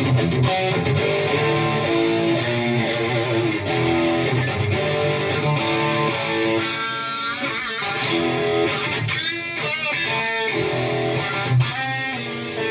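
Electric guitar played through a Two Notes Opus amp simulator's FlatBack V amp model with every control dimed: a driven tone of chords and sustained single notes, with wavering bent notes about seven and nine seconds in.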